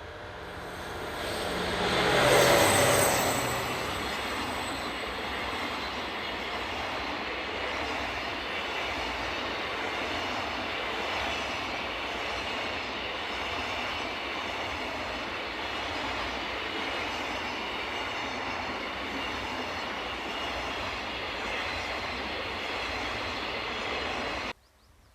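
Diesel-hauled freight train passing close by: the locomotives' engines build to a loud peak about two seconds in. A long, steady rumble of freight wagons rolling past follows, cut off suddenly near the end.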